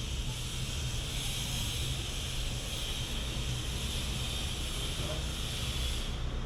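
Steady hiss over a low rumble. The hiss cuts off suddenly about six seconds in.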